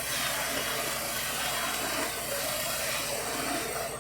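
A loud, steady hiss that holds evenly and cuts off suddenly at the end.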